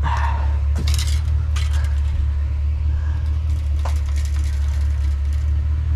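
Junk being rummaged through in a dumpster: scattered clattering, clicks and rustles of items being shifted, over a steady low rumble.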